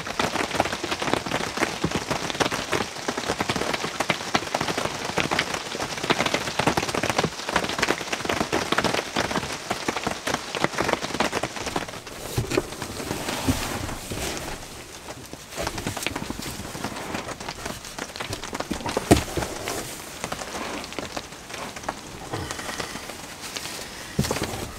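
Heavy rain falling on the roof of a cardboard tent, heard from inside: a dense patter of drops that thins a little about halfway through.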